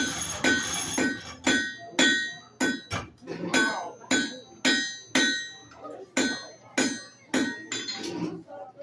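Blacksmith's hammer striking iron on an anvil in a steady rhythm of about two blows a second, each blow ringing brightly.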